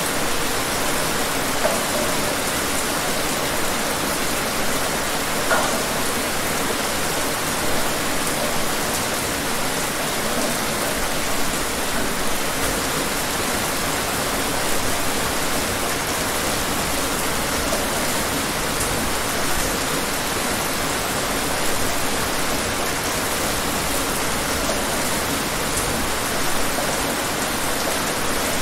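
Steady rain falling: an even hiss with a few sharper drops now and then.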